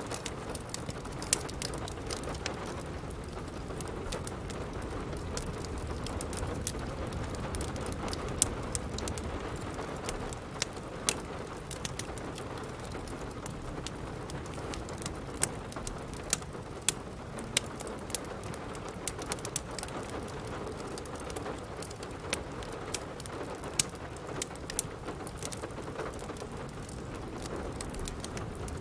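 Steady rain with the irregular crackles and sharp pops of a wood fire burning in a fireplace.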